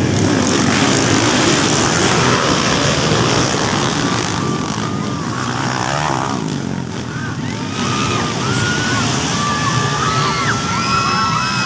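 Motocross dirt bike engines revving, their pitch rising and falling, with several bikes overlapping more and more in the second half, over a noisy din with voices.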